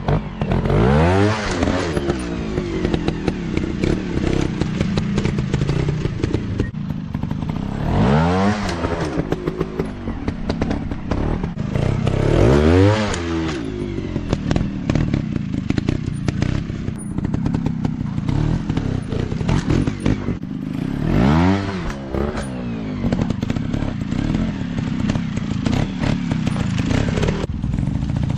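Dirt bike engines running hard, the engine note rising and falling in about five separate surges over a steady drone, with some clatter.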